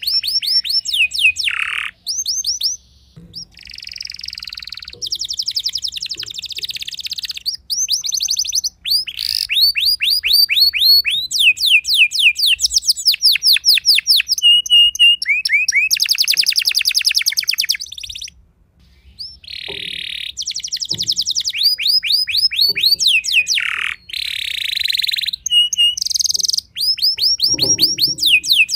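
Domestic canary singing a long song of fast rolls and trills, made of rapid runs of repeated down-sweeping notes and buzzy rolls that change every second or two. There are short breaks about 3 seconds in and again around 18 seconds.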